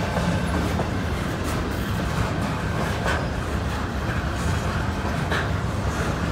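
Train rolling past on the track: a steady low rumble of wheels on rail, with a few sharp clicks.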